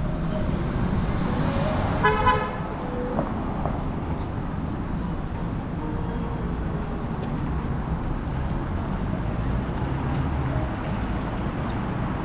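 Steady city street traffic noise, with a single short car horn honk about two seconds in.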